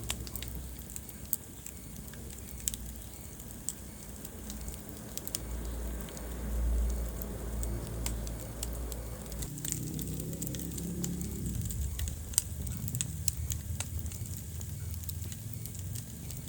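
Wood fire burning in a fireplace: irregular crackles and sharp pops over a low rumble of the flames, with the loudest pop about three-quarters of the way through.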